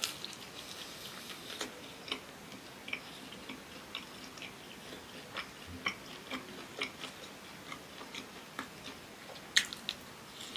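Close-miked eating sounds of a person biting into and chewing a fried pastel (Indonesian fried pastry): an uneven scatter of sharp, crisp clicks and crackles, with a louder bite at the start and another a little before the end.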